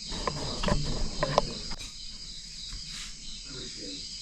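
Crickets chirring steadily, a constant high drone, with a few faint clicks and soft murmurs of voice.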